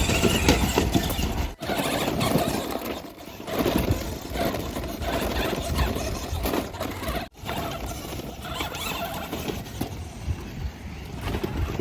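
Toy RC monster truck's electric drive motor and tyres running as it drives, a rough whirring noise that rises and falls. The sound cuts out sharply for an instant twice.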